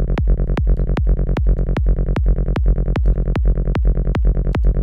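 Forest psytrance loop: a kick drum about every 0.4 s with a rapid, gritty synth bassline designed in Serum 2 rolling between the kicks.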